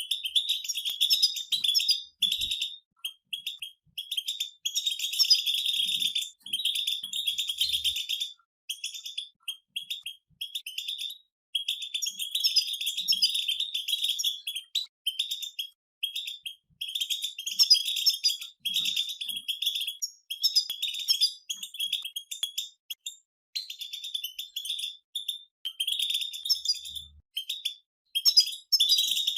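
European goldfinches singing together: fast, high-pitched twittering and chattering in phrases of a second or more, broken by short pauses.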